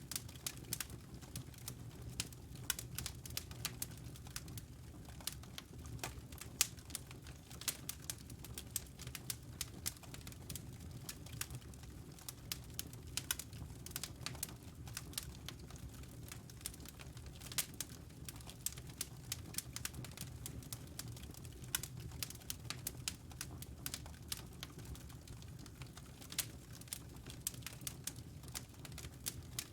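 Wood fire crackling in a fireplace: many small irregular pops and snaps over a low steady rumble.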